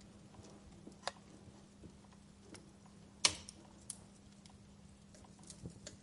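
Wood fire in a fireplace crackling, with scattered small clicks and one sharp pop a little over three seconds in, over a faint steady hum.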